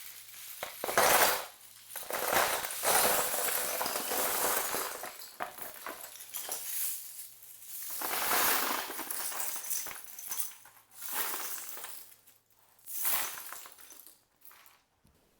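Loose plastic LEGO pieces clattering against each other in several bursts of a few seconds each, as the pieces are handled and stirred.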